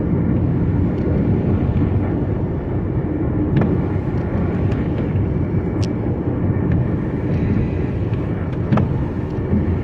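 A car driving, heard from inside the cabin as a steady low rumble of road and wind, with a few sharp ticks scattered through it.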